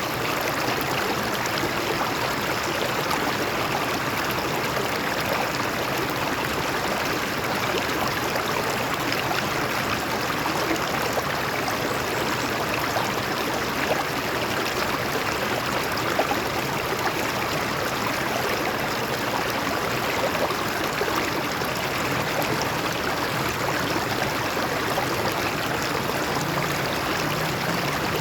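A stream of water flowing over rocks: a steady, even rush with small splashes and trickles throughout.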